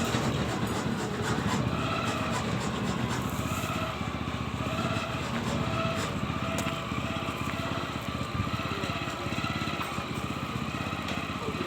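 A small engine running steadily with a continuous low rumble.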